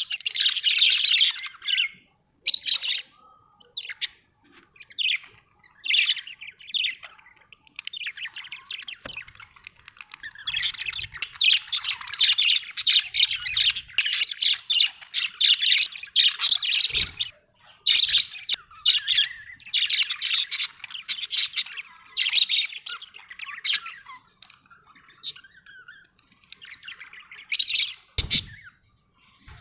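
Pet parrots chirping, chattering and squawking in a rapid, almost continuous warble, thinning out towards the end, with a brief low thump near the end.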